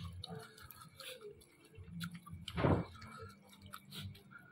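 Close-up eating sounds of a person chewing rice and fried catfish by hand: small scattered clicks and lip smacks, with one louder breathy sound about two and a half seconds in.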